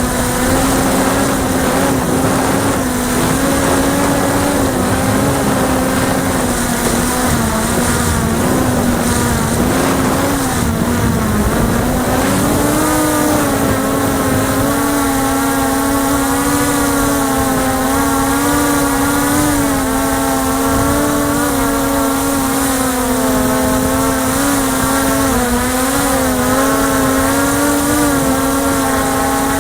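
Motors and propellers of a 450-size X8 coaxial multirotor drone whirring in flight. The pitch wavers constantly as the flight controller corrects against a gusty wind. About ten seconds in the pitch sags, then climbs back and holds slightly higher.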